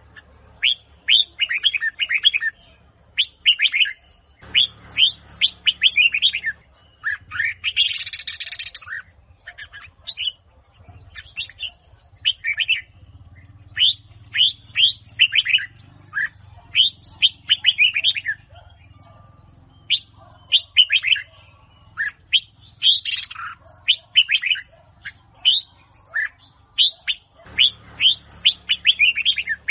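Huế-strain red-whiskered bulbul singing: quick, bright phrases of chirps and whistles, one after another with short pauses between them.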